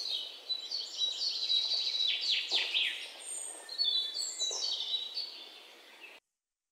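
Birds chirping and singing, many short overlapping calls and quick downward-sweeping notes, cutting off abruptly near the end.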